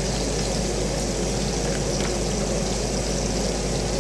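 Bacon sizzling in a frying pan: a steady crackling hiss that holds at an even level.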